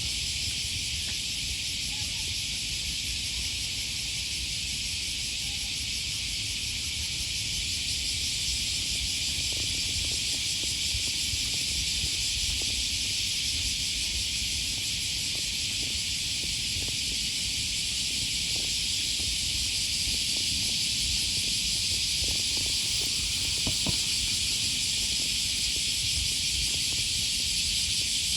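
A chorus of cicadas buzzing in a steady, unbroken, high-pitched hiss, over a low rumble.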